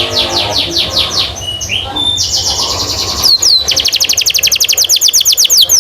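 Domestic canary singing: a varied phrase of quick downward-sweeping whistled notes, then, about halfway through, a fast, even trill of repeated down-slurred chirps, about ten a second.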